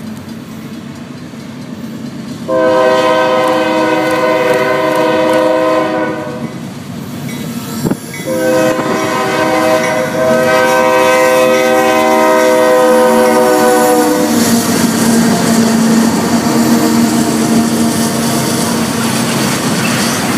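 Multi-chime air horn of a Union Pacific freight train's lead locomotive, a leased CEFX unit, sounding two long blasts as it approaches a grade crossing; the second blast is longer. Then the locomotives and freight cars rumble past close by, with the wheels clacking over the rail joints.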